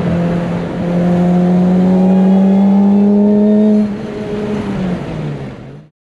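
Car engine under steady acceleration, its pitch rising slowly for about three seconds, then easing off and dropping away. The sound cuts off abruptly near the end.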